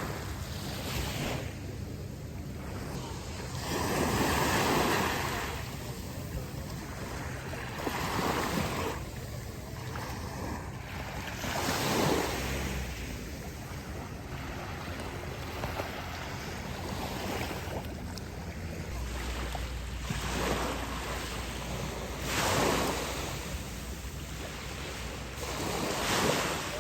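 Sea waves washing in and out, surging every few seconds over a steady rushing hiss, with wind buffeting the microphone.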